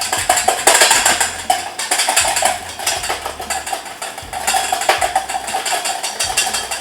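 Wire whisk beating raw egg yolks in a bowl for aioli, a fast, steady rhythmic clicking of the wires against the bowl.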